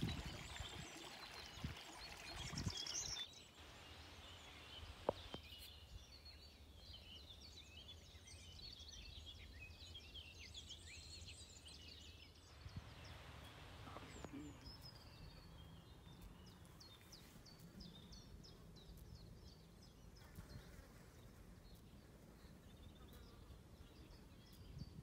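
Faint birdsong: small birds chirping and twittering over a quiet outdoor background.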